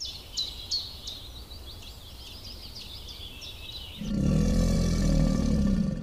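Small birds chirping repeatedly in the background, then about four seconds in a cow gives one loud, low moo lasting about two seconds.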